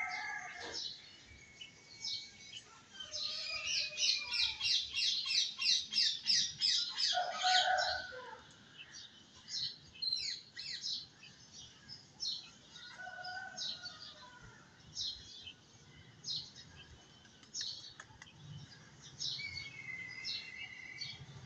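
Small birds chirping: a rapid run of high chirps at about four a second in the first half, then scattered single chirps.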